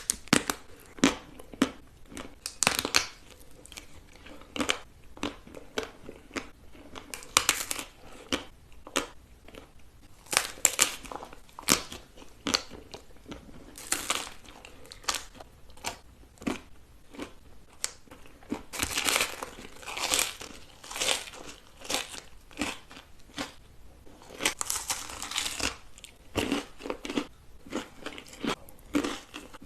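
Someone eating crunchy food close to the microphone: many sharp crunching bites and chewing, with a few longer crackling stretches.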